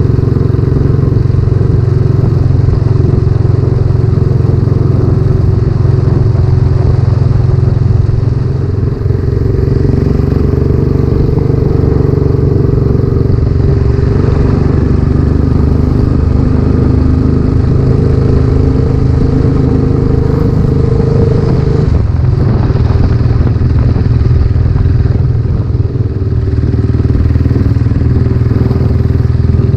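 Royal Enfield Classic 500's air-cooled single-cylinder engine running under way through a newly fitted aftermarket silencer. The exhaust note dips briefly twice, about nine seconds in and again shortly before the end.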